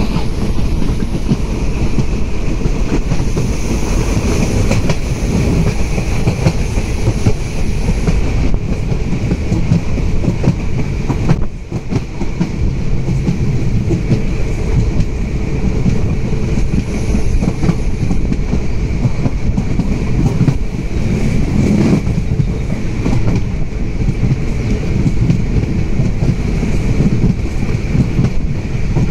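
Passenger train running at speed, heard from on board: a steady, loud rumble of the wheels on the rails, dipping for a moment about eleven seconds in.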